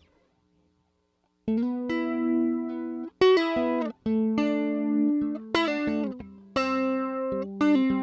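Electric guitar played through a JHS 3 Series Flanger pedal. After about a second and a half of silence, single picked notes and short phrases ring out one after another.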